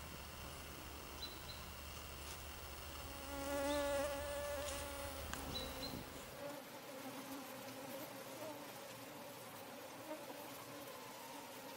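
A flying insect buzzing close past, swelling to its loudest about four seconds in, then a fainter, wavering buzz as it hovers farther off.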